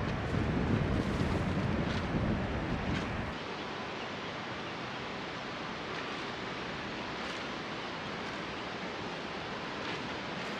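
Wind buffeting the microphone with a low rumble for the first three seconds, then dropping away to a steady outdoor rushing noise.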